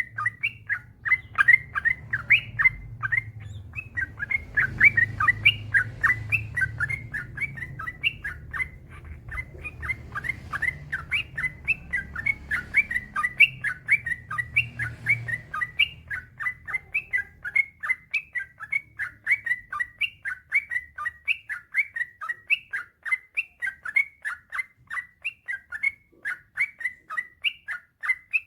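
Yellow-vented bulbul (trucukan) singing a long, unbroken run of short, quick chirping notes, about three a second. A low rumble sits under the song for the first half, then fades.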